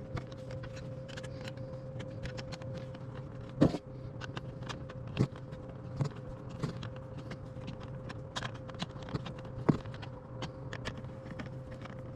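Irregular clicks and knocks of hand tools, bolts, screws and panel parts being handled while a Champion generator's CO sensor is swapped out, with one sharp knock about a third of the way in, over a steady low hum.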